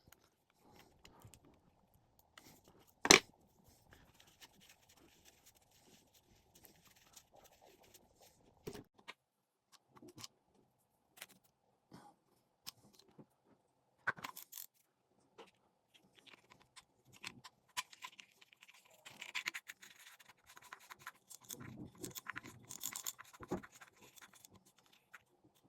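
Small parts of a spinning fishing reel being handled while it is worked on: scattered light clicks and scrapes, with one sharp knock about three seconds in and a denser stretch of scraping and rattling near the end.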